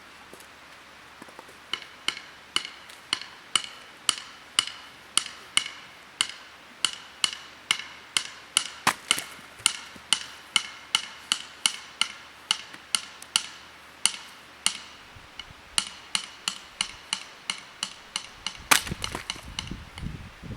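A hammer driving a steel tent peg into the ground: a long run of sharp, ringing metal-on-metal strikes, about two a second, with brief pauses between series.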